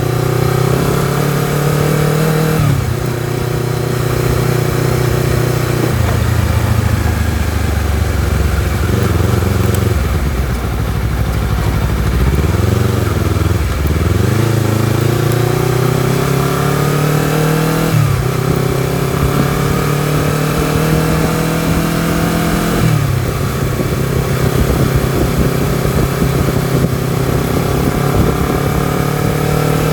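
Honda CBR250RR's parallel-twin engine pulling under load while riding. Its pitch climbs through the revs and drops suddenly at gear changes about 3, 18 and 23 seconds in. Around the middle it falls low and wavers for a few seconds before climbing again.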